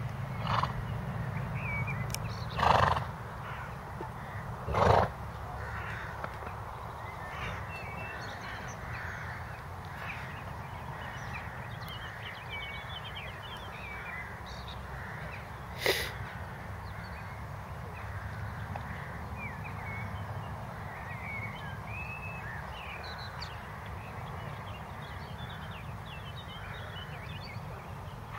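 Small birds chirping throughout over a steady low rumble. A few short, loud, noisy bursts come in the first five seconds, and a single sharp click about sixteen seconds in.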